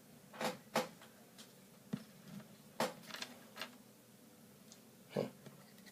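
Four short breathy puffs of air from a person, sniff-like, spaced irregularly, with a single faint tap about two seconds in.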